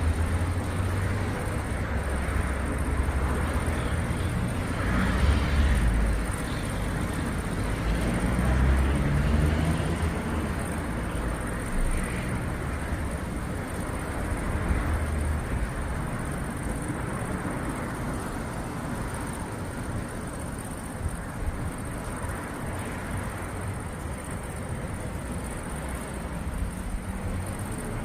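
Outdoor ambience during a thunderstorm: a steady rush of noise with low rumbles that swell and fade several times, with a faint steady high tone.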